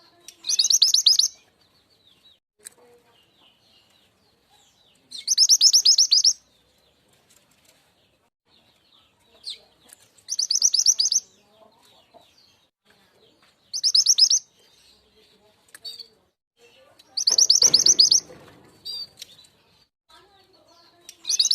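Lure recording of the mountain mantenan bird (truntung weru) song: a loud, fast, high trilled burst of about a second, repeated six times every three to five seconds, with faint chirps in between. A brief low rustle sounds under the fifth burst.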